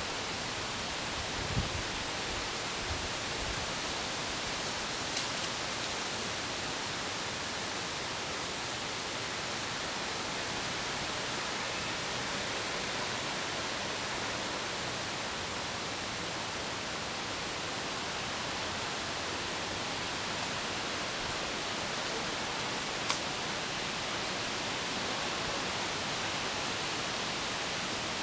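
Steady rushing of water, an even hiss that never lets up. A faint low thump near the start and a couple of brief sharp clicks.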